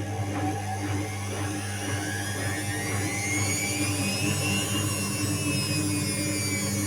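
Indesit WIU 81 front-loading washing machine running: a steady low motor hum under a drum-motor whine that rises in pitch for about four seconds and then begins to fall.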